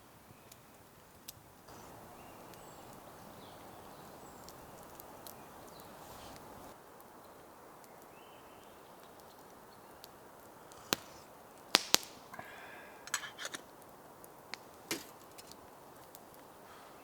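A scattering of sharp ticks and knocks, the loudest two close together about two thirds of the way in, over a faint outdoor rush.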